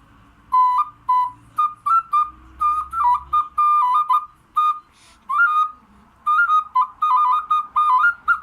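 Clay folk whistle blown in short toots and quick choppy runs, hopping between a few high notes. It starts about half a second in.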